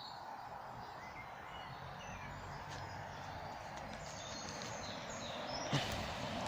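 Small birds chirping now and then in woodland over a steady outdoor background rush, with one sharp knock near the end.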